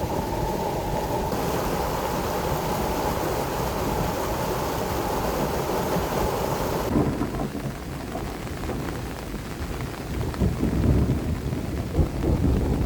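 Heavy rain falling steadily. About seven seconds in, the sound changes abruptly to a duller rain with uneven low rumbling gusts.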